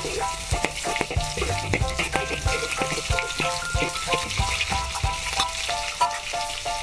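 Minced garlic frying in hot oil in a wok: a steady sizzle with crackles and the clicks of a spatula stirring it. Background music with a melody of short notes and a bass line plays throughout.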